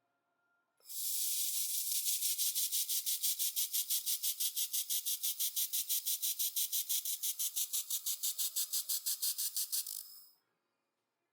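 Handheld 1500 W laser welder running a weld on aluminium with 1 mm filler wire under argon. It makes a steady high hiss that pulses about five or six times a second, starts about a second in and cuts off sharply about a second before the end.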